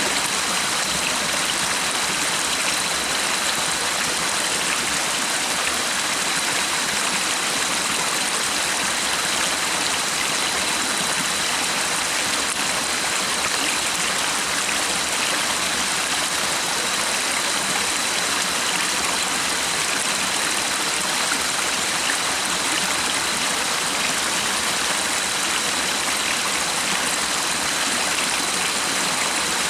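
Stream water running steadily, an even rushing with no change, with a faint steady high-pitched tone running through it.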